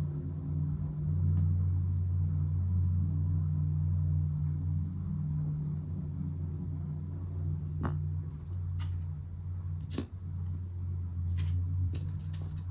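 Steady low hum, with light clicks and taps from small accordion reed plates and tools being handled on a work surface, about seven scattered through.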